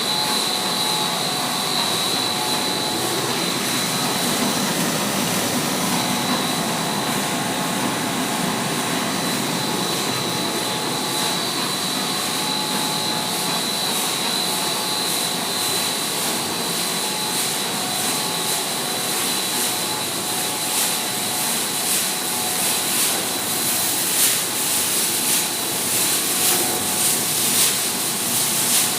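Pet food production line machinery running steadily, with a continuous high whine over the machine noise. About two-thirds of the way through, irregular hissing puffs join in and grow more frequent.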